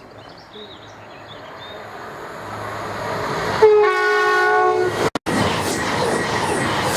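A train approaching through a station, growing steadily louder, sounds its horn, a held chord of about a second, just past halfway. The sound cuts out for an instant, and then the train passes close and loud.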